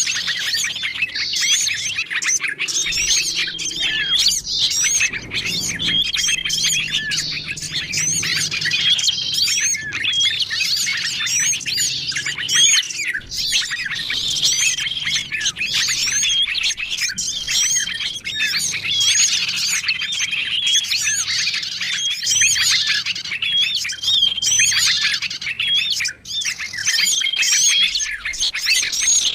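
Bird-lure recording of many small songbirds calling at once: a dense, unbroken chorus of high chirps and twitters. A short steady whistle recurs every couple of seconds.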